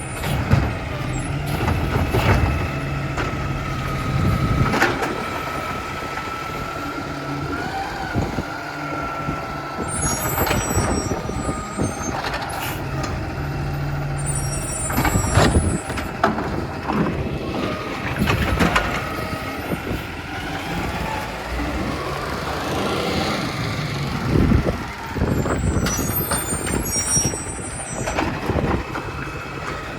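New Way Sidewinder automated side-loader recycling truck working, its engine running throughout. A steady whine lasts several seconds early on, short hisses come three times, and knocks and bangs recur throughout.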